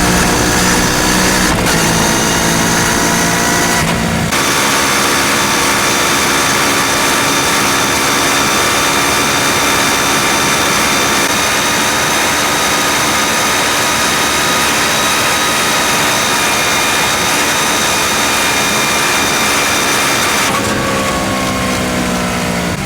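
Kawasaki Ninja 650's parallel-twin engine through a full Akrapovič exhaust, pulling hard with its pitch rising over the first few seconds, then holding a steady high note, and falling back near the end as it slows.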